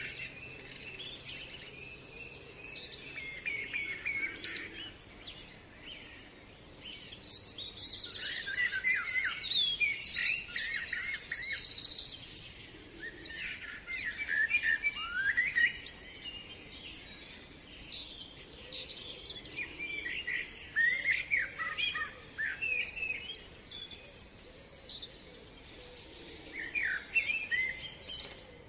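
Several wild birds singing and calling in woodland, many short chirps and warbles overlapping, with a fast, high trill that runs for several seconds about a quarter of the way in.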